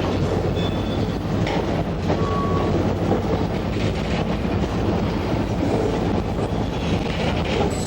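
Buffalo & Pittsburgh freight cars rolling past with a steady rumble and clatter of wheels on rail joints, with a couple of brief, thin wheel squeals in the first few seconds.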